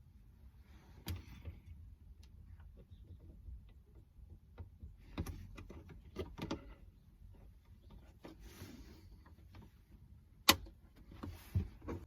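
Hands taping an action camera down: short rasps of adhesive tape being pulled and pressed, with scattered light clicks and knocks of plastic, and one sharp click about ten and a half seconds in.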